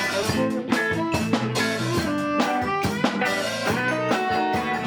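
Band music with electric guitar and a drum kit playing a steady beat.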